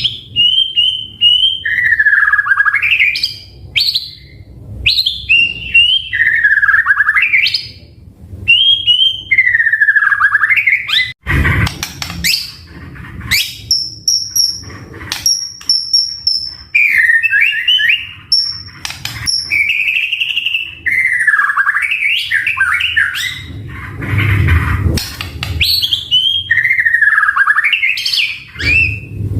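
White-rumped shama (murai batu) in full song: loud whistled phrases that swoop down and back up, repeated every couple of seconds with short gaps. In the middle the phrases give way to sharp clicks and then thin, high, held notes.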